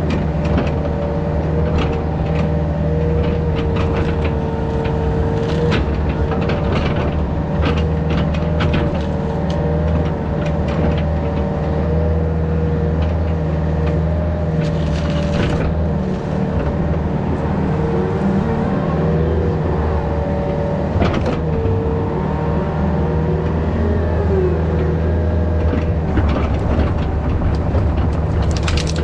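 Yanmar VIO50 mini excavator's diesel engine running steadily under load, with a hydraulic whine that shifts slightly in pitch and occasional knocks and clanks as it works.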